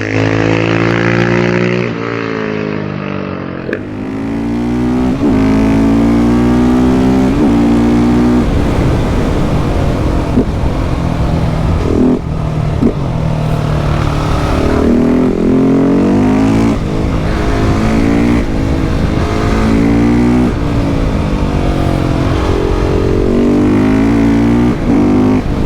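KTM 690 SMC R's single-cylinder engine through a LeoVince exhaust, ridden hard. The engine pitch climbs under full throttle and drops back several times as the bike accelerates through the gears and rolls off, with a few short sharp cracks near the middle.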